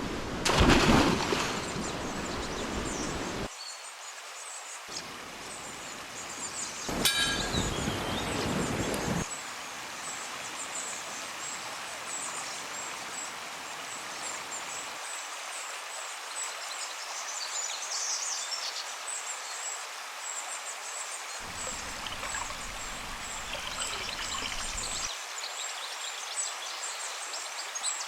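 River water running steadily, with birds chirping high above it. The low end of the sound changes abruptly several times through the stretch.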